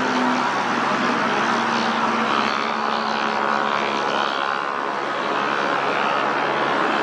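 Boeing 747-8 freighter's four GEnx-2B67 turbofan engines under power on a go-around: a steady jet rush with a faint held whine.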